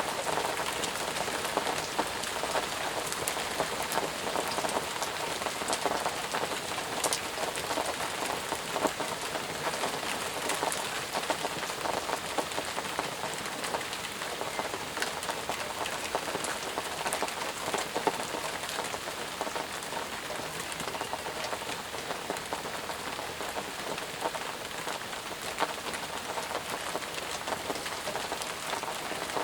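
Steady rain falling and pattering on surfaces, with many individual drops hitting close by.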